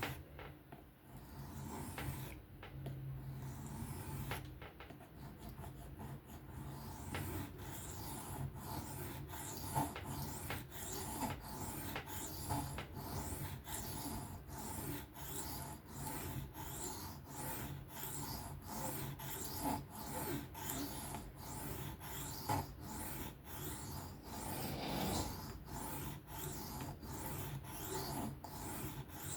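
Knife edge being stroked freehand across a diamond sharpening plate: a rasping, scratchy scrape repeated in regular strokes, sparse at first and then quick and even from about seven seconds in.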